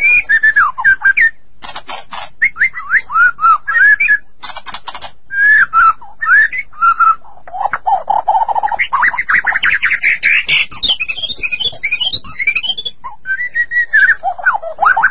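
White-rumped shama (murai batu) singing a loud, varied song of clear whistled notes and short phrases, broken by a fast run of up-and-down sweeping notes about two-thirds of the way in.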